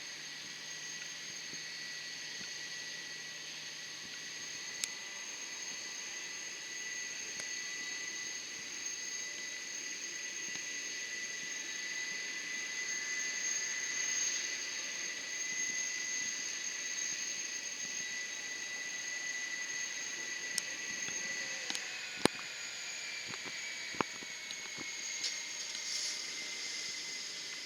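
Jet engines whining at a distance: several steady high-pitched tones over a soft hiss, one of them sliding down in pitch about 22 seconds in. A few sharp clicks near the end.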